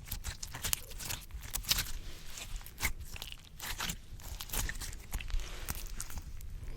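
Slime squished and rolled against a microphone: a dense, irregular run of sticky clicks and wet pops up close.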